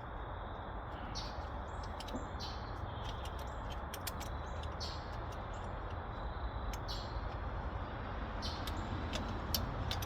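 Outdoor background: a steady low rushing noise, with short high chirps and sharp little ticks scattered through it, like birds or insects.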